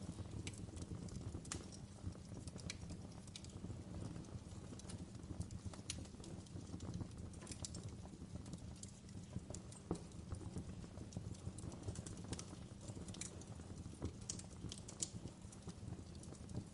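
Wood fire crackling: irregular small pops and snaps, several a second, over a low steady rumble.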